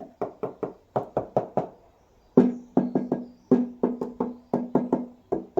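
Rapid knocks on the Land Rover Defender's sheet-metal bulkhead panel, about three to four a second, each ringing briefly with a low hum; a short pause after the first half-dozen, then a longer run.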